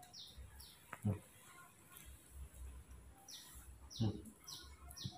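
A bird chirping: short, high, falling chirps in quick runs of three or four, over and over. Two brief low sounds stand out about one and four seconds in.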